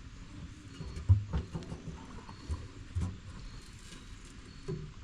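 A few scattered knocks and taps, the loudest about a second in, with others following at irregular intervals, as parts on an old backhoe are handled.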